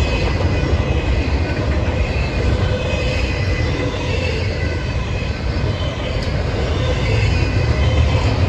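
A train rolling past: a steady loud rumble of wheels on rail, with faint high-pitched wheel squeal running through it.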